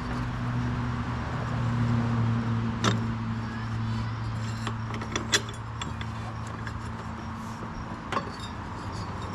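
A few sharp metallic clinks from handling the new deck belt and its loose tensioner hardware on a lawn tractor's mowing deck, over a steady low hum.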